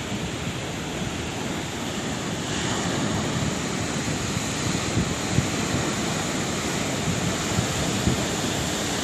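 Sea waves washing on a shore: a steady rush of surf that swells a little a few seconds in.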